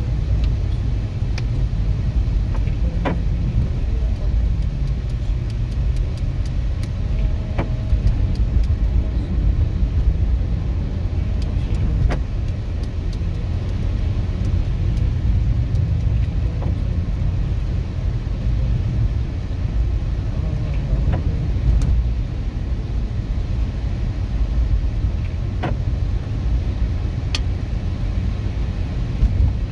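Car on the move: a steady low rumble of road and engine noise, with scattered faint ticks and clicks.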